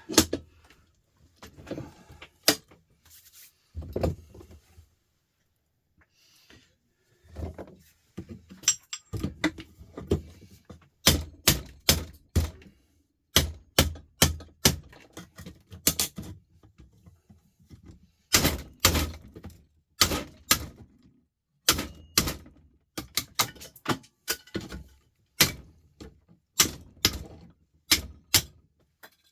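Repeated sharp knocks of a tool striking a scrap part that is being broken out, a few at first, then coming fast and irregularly, about one or two a second, after a short pause.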